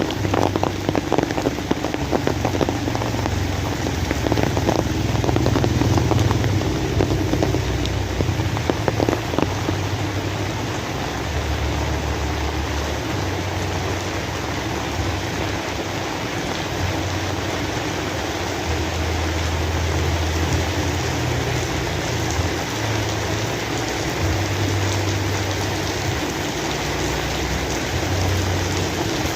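Steady heavy rain falling, with sharper individual drop strikes in the first third, and a low rumble that swells and fades throughout.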